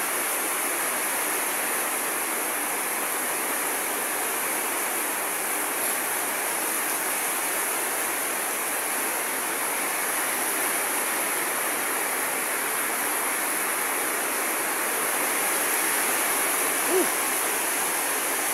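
Heavy rain falling steadily on an open, wet concrete rooftop terrace.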